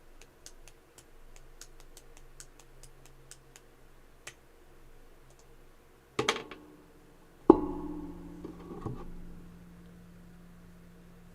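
A run of light clicks, about two or three a second, typical of a computer mouse being clicked. Later come two sudden knocks, the second the loudest, with a brief ringing tone after it.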